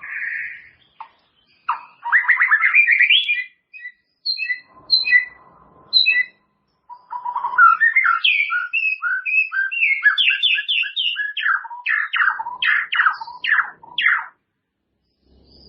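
White-rumped shama (murai batu) singing a varied song: a burst of fast sweeping notes, a few spaced chirps, then a long run of rapid rising and falling notes, with short pauses between phrases.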